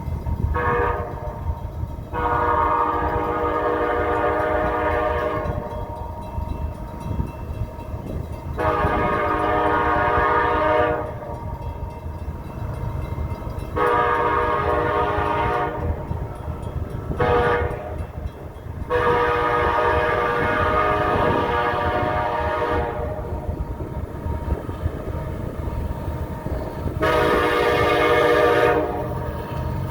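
An EMD SD70MAC diesel locomotive's Nathan K5LA five-chime horn sounds a series of blasts, long, long, short, long (the grade-crossing signal), followed by another long blast near the end. Under the horn is the steady low rumble of the locomotive working hard in notch 8 up a grade.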